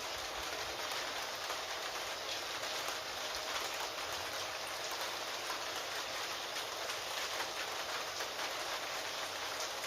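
Steady rain falling, an even hiss dotted with many small, sharp drop clicks.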